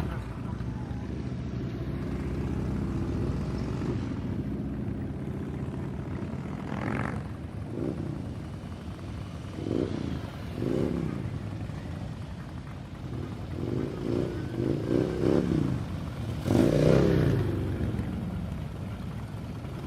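Motorcycle engines running with a steady low rumble, with repeated revs rising and falling in pitch, several in quick succession in the second half and the loudest one near the end.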